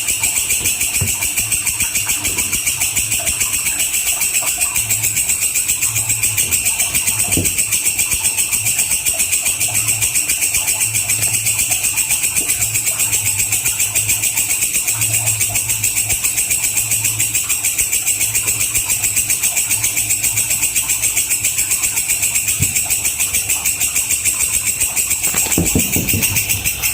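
Walang kecek katydid stridulating without a break: a loud, steady, high-pitched buzzing trill made of very rapid, even pulses. There is a brief low thump near the end.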